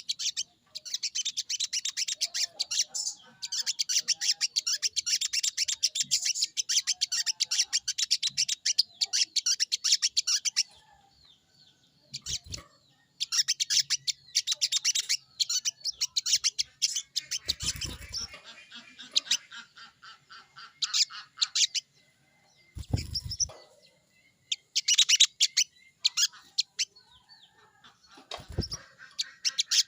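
Sogon bird (crested jay) giving its rapid rattling call, long bursts of fast ticking notes that later break into shorter runs. A few dull thumps come between the bursts.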